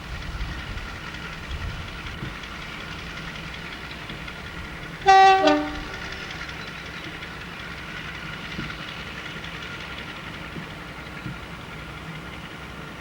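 Diesel train's two-tone horn sounding once about five seconds in: a short higher note dropping straight to a lower one. The train's engine runs steadily underneath.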